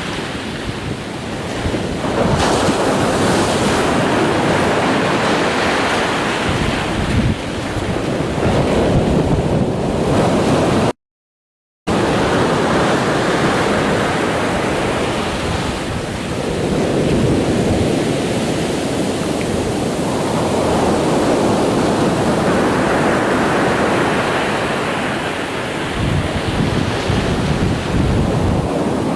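Ocean surf: waves breaking and washing in a continuous roar that swells and eases every few seconds. The sound cuts out completely for about a second near the middle.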